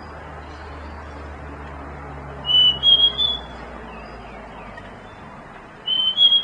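A bird singing a short whistled phrase of three clear high notes, each a little higher than the last, heard twice about three and a half seconds apart, over a steady low background hum.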